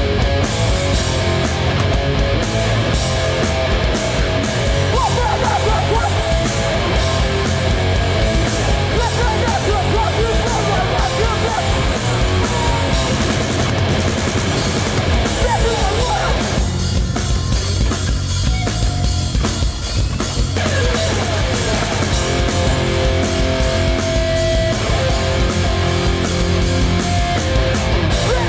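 Hardcore punk band playing live at full volume: heavy distorted guitars and drums. Past the middle the upper instruments drop out for about four seconds, leaving only the low end, before the full band comes back in.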